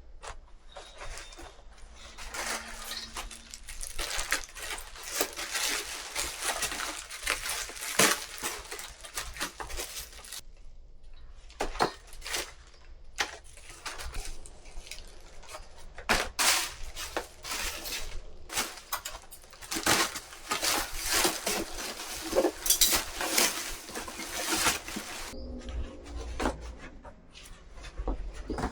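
Dishes and utensils clinking and clattering in a kitchen, many short knocks over stretches of steady hiss.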